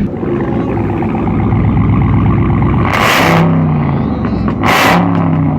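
Dodge Hellcat's supercharged V8 running loud and being revved, its pitch stepping up and down. Two short bursts of harsh rushing noise come about three seconds in and again about four and a half seconds in.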